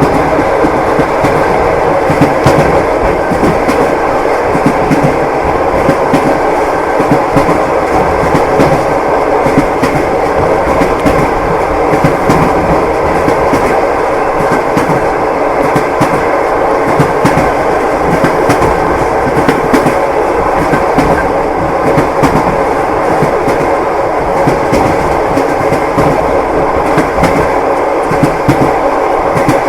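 A passenger train's wheels clattering over the rail joints: a steady rolling rumble with a constant run of clickety-clack knocks.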